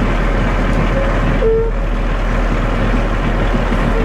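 Concrete mixer truck's diesel engine running steadily during a curb pour, with a few short high beeps about a second and a half in and again near the end.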